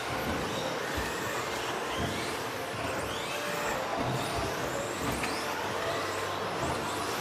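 Several electric RC stadium trucks with 13.5-turn brushless motors racing on an off-road track. Their motors give overlapping high whines that rise and fall as the trucks accelerate and brake, with a few low thuds along the way.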